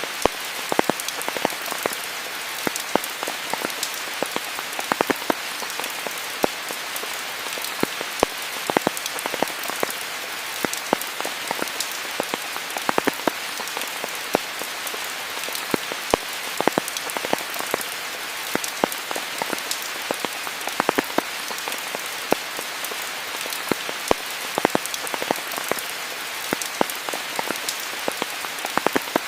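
Steady rain falling, a dense hiss with many close, individual drops ticking sharply on surfaces throughout.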